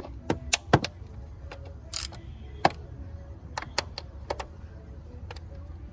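Ratchet wrench clicking and hand tools clinking in irregular sharp ticks, a spark plug being tightened by hand.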